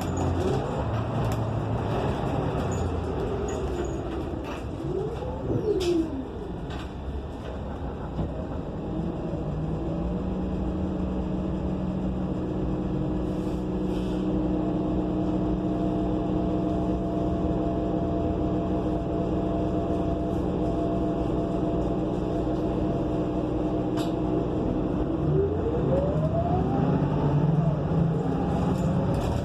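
A motor vehicle's engine running, its pitch rising and falling briefly about five seconds in and again near the end, and holding steady in between.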